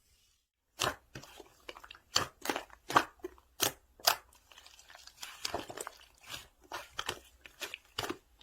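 Slime being squeezed and pressed by hand, giving irregular crunchy clicks and crackles.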